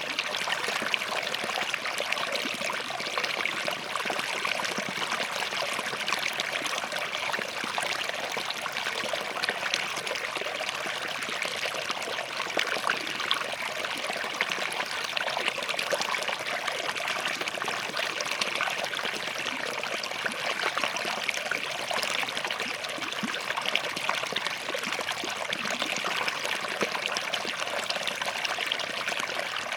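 Small forest stream flowing and trickling over rocks, a steady babble with fine splashing.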